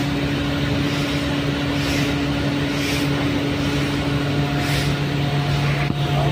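Large V16 diesel engine of a Cummins QSK60 generator set running steadily at constant speed, a dense, even engine noise with a steady hum.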